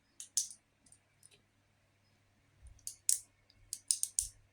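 Short, sharp light clicks, about ten in all, in two loose groups: a few near the start and a quicker cluster from about three seconds in.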